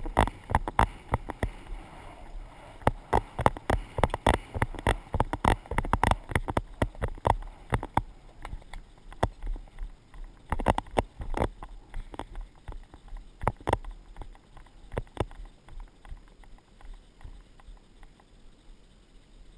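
A horse's hooves knocking in an uneven run of sharp thuds, picked up by a GoPro on horseback. The thuds come thick and fast at first, then thin out and grow quieter in the last few seconds.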